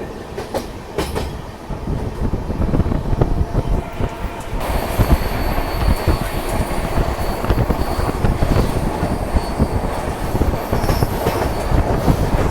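Moving passenger train's coach wheels rumbling and clacking on the rails. About four and a half seconds in, the running noise grows louder and brighter and a thin, high, steady wheel squeal comes in.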